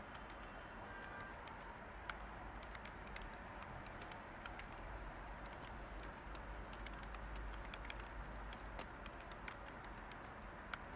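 Light, irregular keystrokes on a computer keyboard over a steady white-noise hiss.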